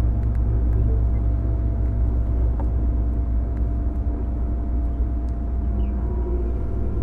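Running sound inside a JR 205 series electric train motor car with MT61 external-fan traction motors, travelling at a steady speed. There is a heavy low rumble with a few steady hum tones from the running gear.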